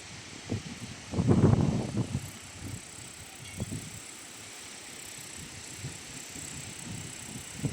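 Strong wind buffeting the microphone in irregular low gusts, the strongest about a second in, then settling into a steadier rush.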